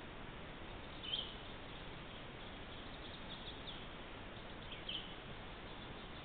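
Short, high bird chirps in woodland, one about a second in, a few faint ones in the middle and another near five seconds, over the steady hiss of a trail camera's microphone.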